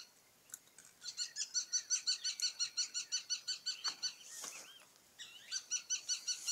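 A bird calling in a fast, even series of sharp, high notes, about seven a second, in two runs separated by a short pause, with a few downward-sliding calls between them.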